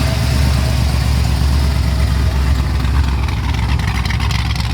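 An engine running at a steady idle.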